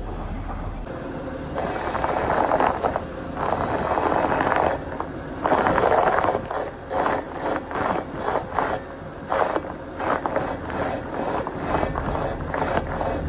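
Front suspension and steering of a 2007 Ford Territory creaking and squeaking as the front wheels are turned: a few longer creaks first, then a run of short creaks about three a second. It is the noise the car failed its warrant of fitness on, and the owner is not yet sure whether it comes from the front control arm bushes or the steering rack.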